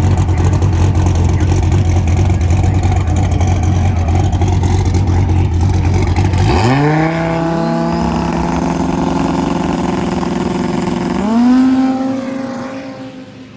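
Twin-turbo Dodge Viper V10 drag car on a pass. The engine runs at a steady heavy drone, then about six and a half seconds in its pitch sweeps up and levels off. It sweeps up again near eleven seconds, then fades as the car pulls away down the track.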